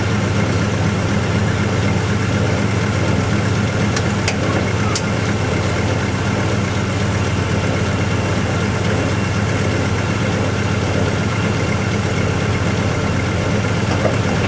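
1974 Dodge engine idling steadily after a cold start, the owner suspecting a cracked manifold.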